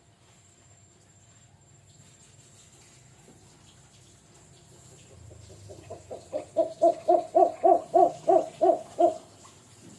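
A bird, locally called burung jujuk or tatapaian, calling a fast series of about a dozen hooting notes, about four a second. The notes start faint, grow loud, then stop abruptly.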